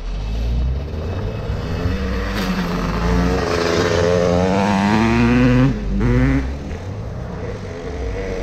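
2021 Land Rover Discovery Sport's 2.0-litre turbocharged four-cylinder engine under load as it climbs a steep dirt slope on near-street tires, heard from inside the cabin. The revs rise steadily for about three seconds, drop off suddenly just past the middle, rise briefly once more, then settle.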